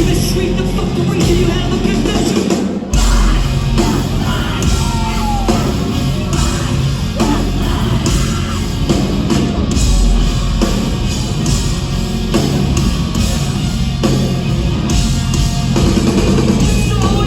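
Live rock band playing loud, with heavy guitars, drums and singing, in a concert hall.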